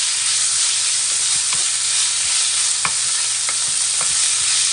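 Canola flower shoots and garlic sizzling in olive oil in a frying pan, a steady loud hiss, with a few clicks of a utensil stirring against the pan.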